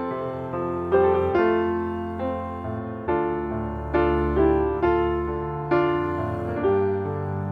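Background piano music, slow notes and chords struck about once a second and left to ring and fade.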